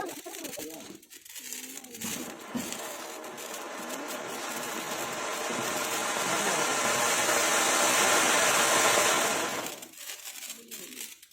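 Colour fountain firework (mini ground fountain) spraying sparks with a steady hiss that starts about two seconds in, grows louder for several seconds, then dies down near the end as the fountain burns out.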